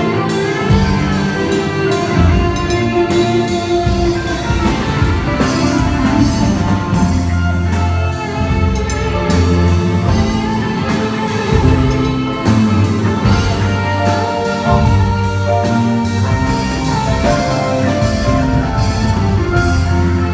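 A rock band playing live, with a drum kit, bass notes and guitar.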